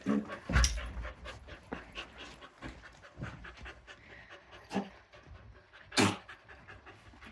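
A dog panting rapidly. There is a heavy low bump about half a second in and a louder sharp knock about six seconds in.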